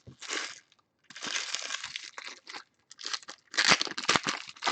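Crinkling and rustling of trading-card pack wrappers as packs are handled and torn open, in irregular bursts that are loudest near the end.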